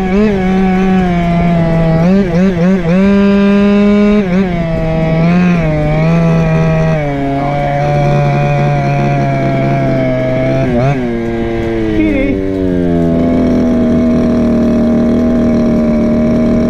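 Go-Ped scooter's small two-stroke engine, a Chongyang CY26RC from a 5th-scale RC car, running under changing throttle: its note wavers up and down several times, holds steady, dips, then settles to a steady tone for the last few seconds.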